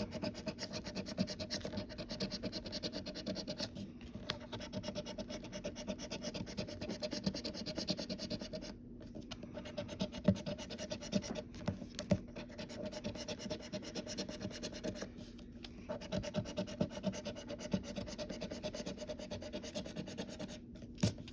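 Scratching the coating off a scratch-off lottery ticket: rapid scraping strokes, stopping briefly a few times.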